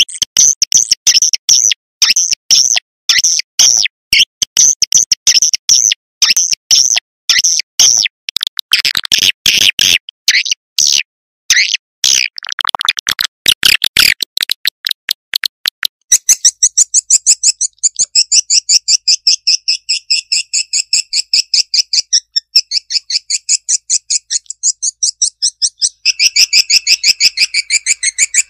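Swiftlet lure call (suara tarik walet): rapid high chirps and twitters in dense runs, turning into a faster, even trill about halfway through, with a lower chirping line joining near the end.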